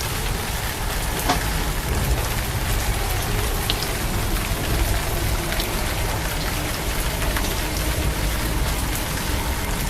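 Steady rain falling, an even hiss with a low rumble underneath and a few faint drips.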